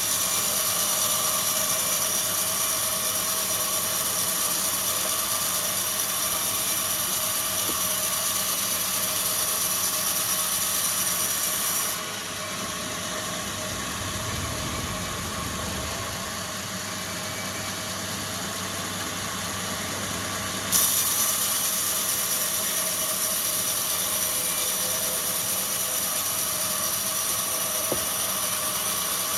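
Wood-processing factory machinery running steadily. The high hiss drops away about twelve seconds in and comes back abruptly about nine seconds later.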